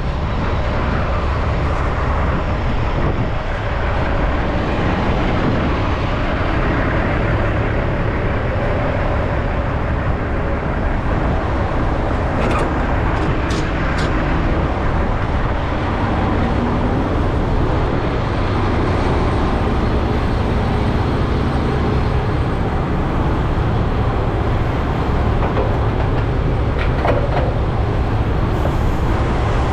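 Semi truck running, a steady low engine and road noise with no pauses.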